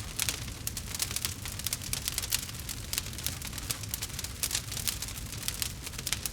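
Crackling fireplace fire: dense, irregular snaps and pops over a steady low rumble.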